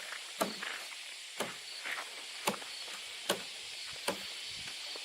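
Chopping: five sharp strikes about one a second, fading out near the end.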